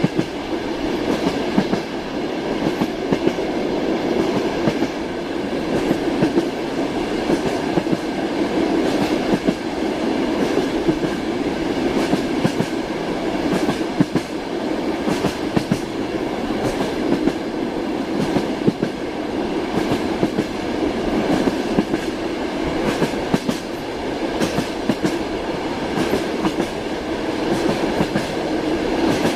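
Train wheels clattering over the rail joints, with the steady rumble of a moving railway carriage and many short knocks through it.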